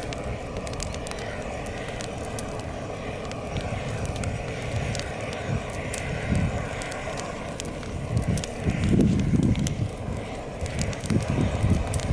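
Campfire burning, with scattered sharp crackles and pops over a steady rushing hiss. From about eight seconds in, louder low rumbling gusts come and go.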